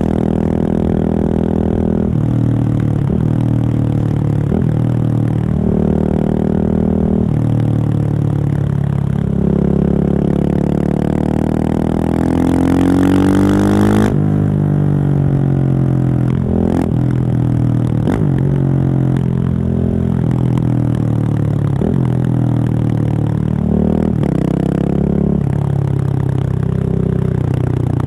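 Husqvarna 701 supermoto's single-cylinder engine, breathing through a Remus exhaust with the dB killer taken out, pulling up through the revs while riding, with short breaks at each gear change. About halfway through, one long climb in revs ends abruptly, and the engine then carries on rising and falling through further shifts.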